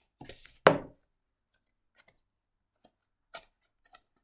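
A page of a picture book being turned: a brief paper rustle, then one sharp slap or knock as the page comes down, followed by a few faint clicks from handling the book.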